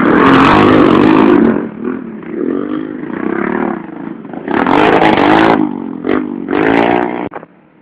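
Small 110cc racing motorcycles revving hard as they pass, the engine pitch rising and falling. It is loudest at the start and again about five seconds in and near the end, then cuts off suddenly.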